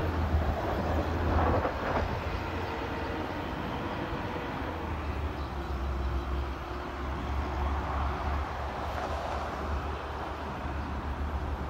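Metro-North M8 electric train running away down the line after passing through the station at speed, its wheels on the rails heard as a steady low rumble that thins out as it goes.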